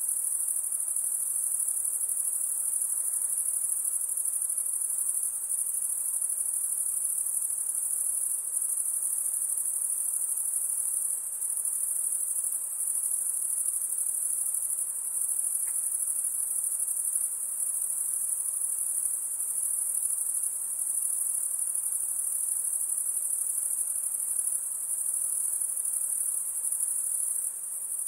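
Chorus of high-pitched insects, crickets or similar, trilling steadily and shrilly without a break.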